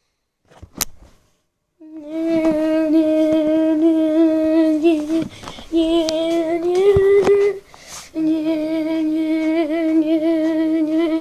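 A person humming a long, steady low note, held in three stretches with short breaks between, rising slightly in pitch before the second break. A sharp click comes about a second in.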